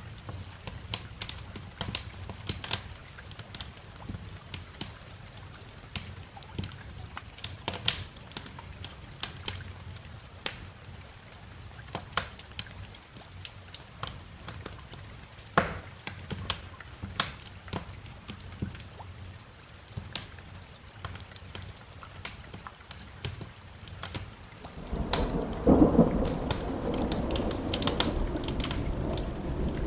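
Wood fire crackling, with frequent sharp pops over a background of rain. About 25 seconds in, a loud roll of thunder begins and continues rumbling.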